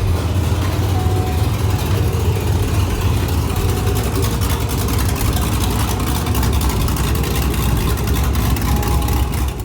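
Cammed V8 farm-truck engine with a newly installed aftermarket camshaft, running steadily and loudly with a deep, low exhaust note.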